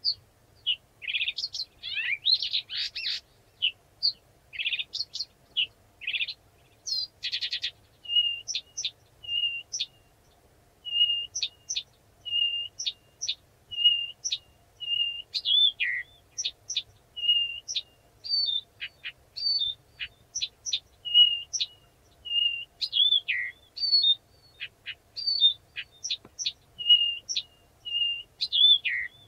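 Blyth's reed warbler singing a slow, measured song of short clear notes. Many notes are repeated on about the same pitch, mixed with sharp upward flicks and a brief buzzy rattle about seven seconds in.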